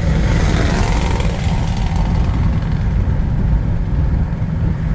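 Strong gusting wind buffeting the microphone: a loud, constant low rumble, with street traffic faintly beneath it.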